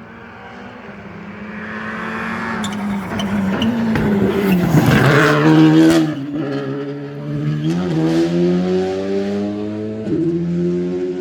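Rally car driven flat out on a stage: the engine grows louder as it approaches and is loudest about five seconds in as it passes, then the revs climb again with several quick gear changes.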